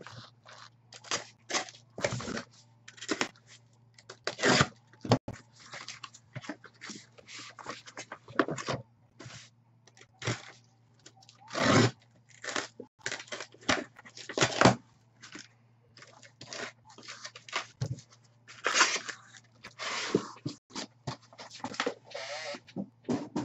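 Packaging of sealed trading-card boxes being torn open: plastic shrink wrap crinkling and ripping in quick, irregular bursts.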